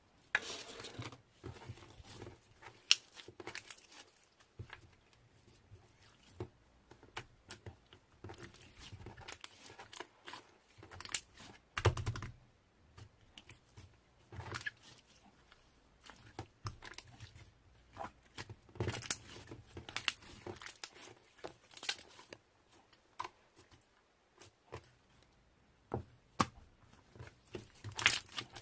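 Slime being handled, squished and pulled, giving irregular sticky crackles and popping clicks.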